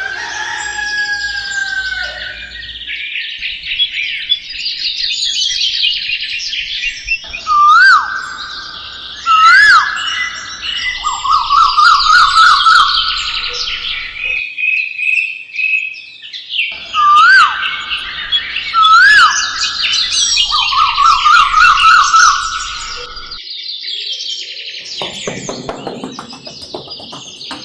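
Songbirds chirping and singing, with loud whistled calls that swoop up and down and fast trilled phrases; the same passage of song is heard twice, as in a looped birdsong recording.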